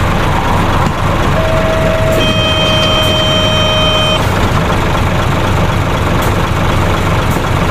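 Truck engine sound running steadily, with a steady high tone held from about a second and a half to four seconds in.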